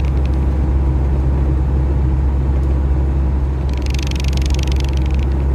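A high-mileage semi truck's engine and road noise droning steadily inside the cab while driving, with a brief hissing rattle about four seconds in.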